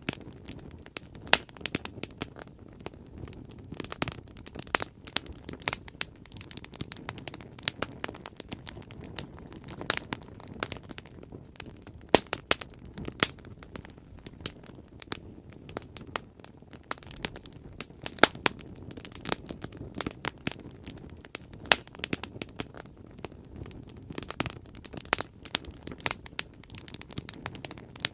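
Bonfire burning, with a steady low rush of flames and frequent irregular sharp crackles and pops from the burning wood.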